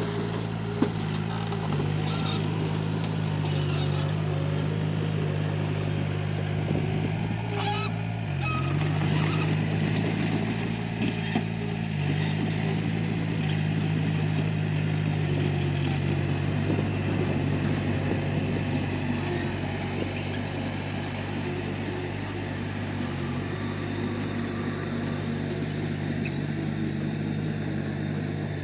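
Komatsu D31P bulldozer's diesel engine running steadily under work, its pitch dipping briefly twice, about eight seconds in and again near the end.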